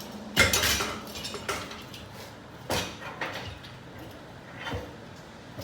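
Several separate metal clanks and knocks from steel parts being handled, the loudest about half a second in.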